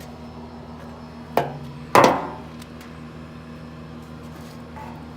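Two knocks of scrap sheet-metal HVAC panels being handled, about half a second apart, the second louder with a short ringing tail, over a steady low hum.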